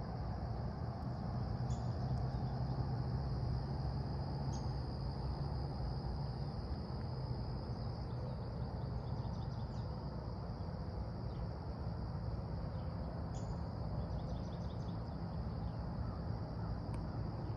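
Insects, crickets or similar, droning steadily at a high pitch, softening about halfway through, with a few short bird chirps over a low outdoor rumble.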